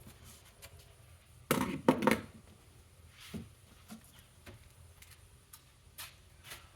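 Knocks and thuds of vacuum cleaners and their boxes being handled and set down. The loudest cluster comes about one and a half to two seconds in, with a few lighter knocks after.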